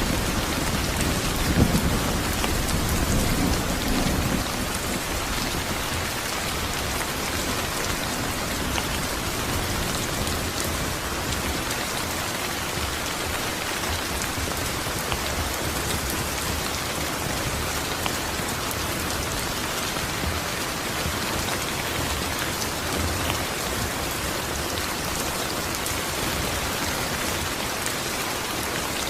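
Steady heavy rain falling on a surface, an even hiss of many drops. A low rumble of thunder swells in the first few seconds, loudest just under two seconds in, then dies away under the rain.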